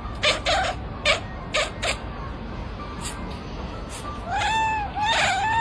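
A cat giving several short meows, then long, wavering yowling meows from about four seconds in.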